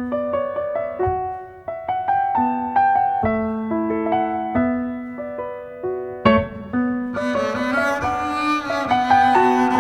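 Instrumental passage: a piano plays a gentle melody of single notes, and about six seconds in a bowed double bass comes in with long sustained notes under the piano.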